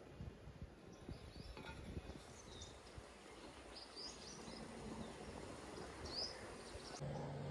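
Faint outdoor ambience with a few short, high bird chirps in the middle and some soft low knocks; a steady low hum starts near the end.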